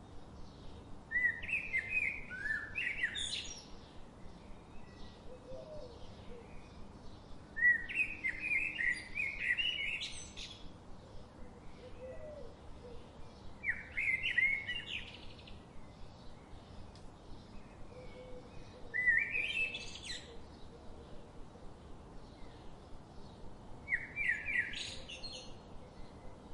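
A songbird singing the same short, quick-noted phrase five times, about every five to six seconds, each phrase rising in pitch at its end, over a faint steady background hiss.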